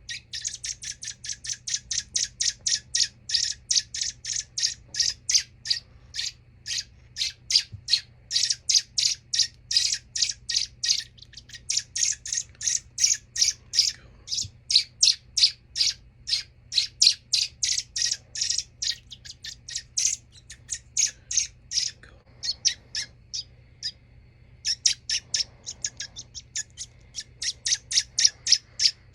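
Baby bird's begging calls while being hand-fed: rapid, high-pitched chirps, about four a second, kept up almost without a break, with one short pause near the end.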